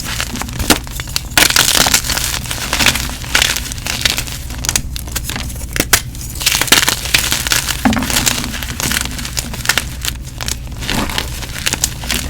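Gym chalk being crushed and crumbled close to the microphone: a dense, irregular run of crunches and soft crumbling.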